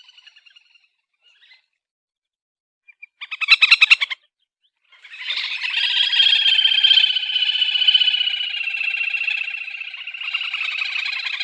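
Titihan telaga grebe calling with a fast trill: a short trilling burst about three seconds in, then, after a second's gap, a long, loud, continuous trill.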